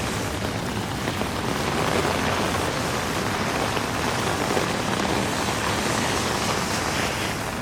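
Heavy rain falling on a city street, a steady, even hiss, mixed with the sound of traffic on the wet avenue.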